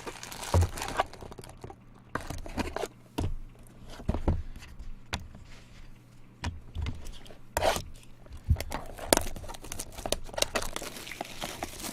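Baseball card packs being torn open: wrappers tearing and crinkling in irregular rustling bursts with sharp clicks, over a faint steady low hum.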